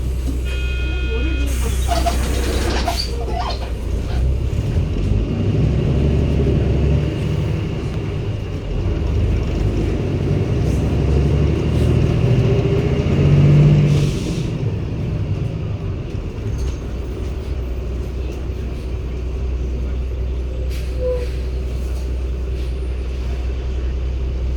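A 2016 Daewoo BS090 city bus's Cummins ISB diesel engine, heard from inside the bus. After short beeps and a burst of air hiss near the start, the engine pulls the bus away, rising in pitch for about ten seconds. It then drops back suddenly, as at a gear change, and runs on steadily.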